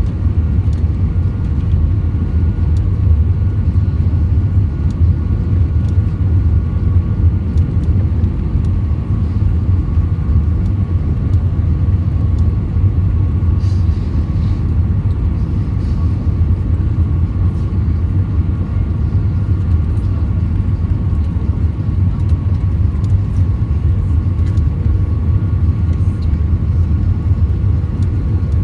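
Steady cabin noise of an Airbus A320: a loud, even low rumble with a few faint steady tones from the engines above it.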